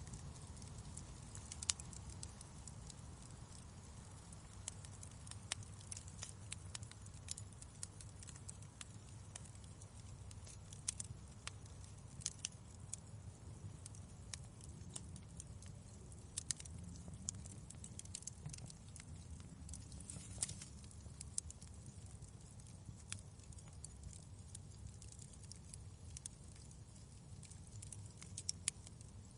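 Wood fire crackling in a fireplace: irregular sharp pops and snaps over a faint, steady low rumble.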